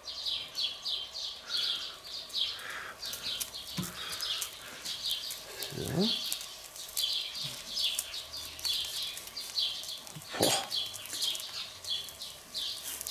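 A small bird chirping over and over, about three short high notes a second. Light clicks and a single knock about ten seconds in come from metal grill tools being handled at the small kamado.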